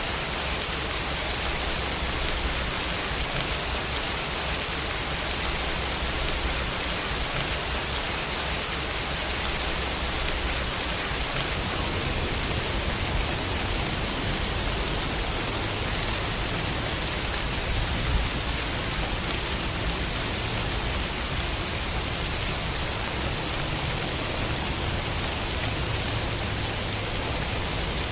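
Steady rain falling, a dense even hiss of drops, with a low rumble underneath and one slightly louder patter about eighteen seconds in.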